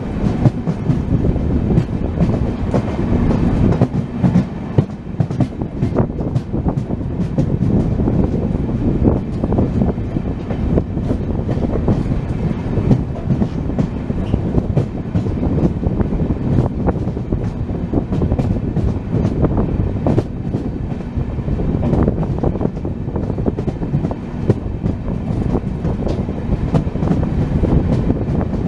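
Express passenger train running along the track, heard from on board: a steady rumble of the wheels with frequent clicks and knocks from the rails.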